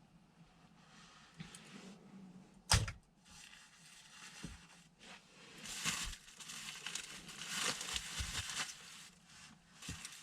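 Irregular rustling and crinkling, like handling material, with scattered clicks and one sharp knock about two and a half seconds in.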